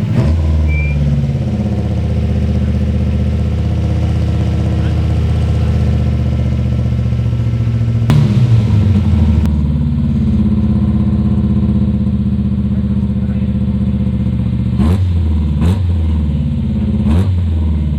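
Rally car engine running and revving, its pitch rising and falling. Several sharp cracks sound near the end, each followed by a drop in engine pitch.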